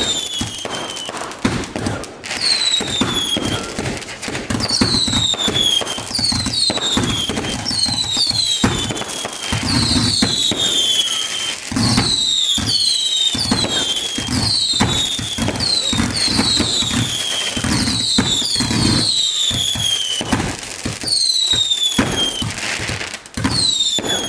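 Firework barrage going off in rapid succession: many whistles falling in pitch, overlapping one another, mixed with sharp bangs and crackle. There is a short lull about two seconds in and another near the end.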